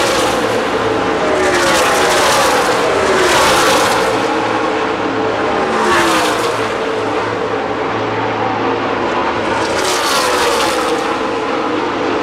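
NASCAR Nationwide Series stock cars' V8 engines passing at speed in several waves, each engine note dropping in pitch as the cars go by.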